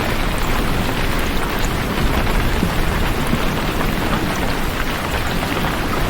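Steady rain: an even hiss of falling rain with a deep low rumble underneath, holding a constant level.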